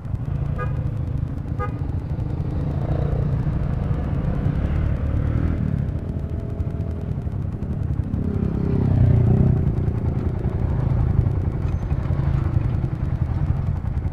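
Motorcycle engine running steadily, with a swell about nine seconds in.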